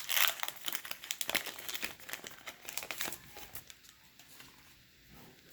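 Baseball card pack wrapper being torn open and crinkled by hand; the crackling is dense for about three seconds and then dies down to occasional faint rustles.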